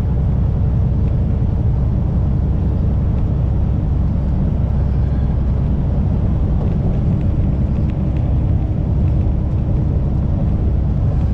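Kenworth semi truck under way: steady engine and road rumble, with a faint steady engine tone joining in about halfway through.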